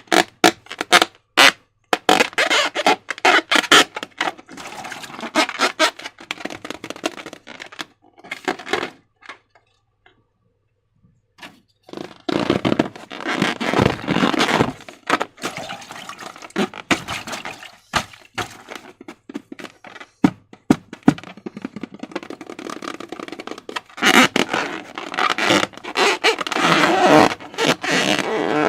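Slime being squeezed and worked by hand, with sticky crackling clicks and squishing. There is a short silent pause a little before the middle.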